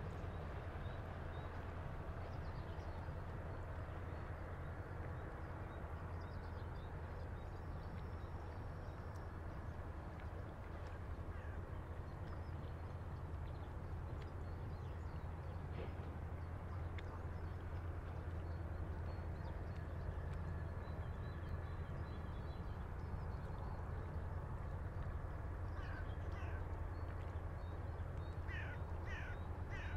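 River water moving against a stone breakwater, with a light breeze and a steady low rumble. Faint bird chirps come through now and then, and near the end a bird gives a quick run of short calls.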